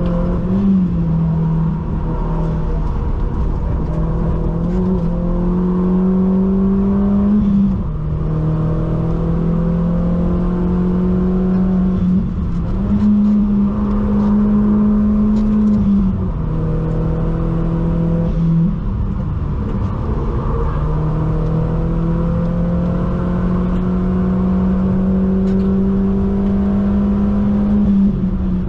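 MK1 Audi TT's engine pulling hard on a fast lap, heard from inside the cabin. Its note climbs slowly through each gear and steps to a new pitch at a gear change every few seconds. The car is down on power, which the driver puts down to heat, probably a reduced-power mode.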